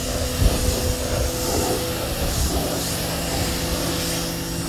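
Electric pressure washer running, its water jet from a 15-degree nozzle hissing steadily as it sprays a car, with a faint steady hum beneath.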